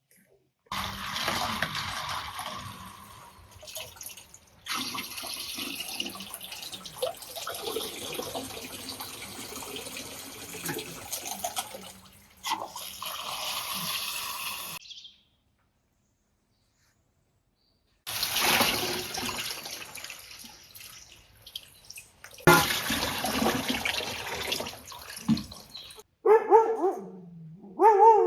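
Water running and splashing in several short stretches broken by abrupt cuts. Near the end a dog gives a few short barks and whines.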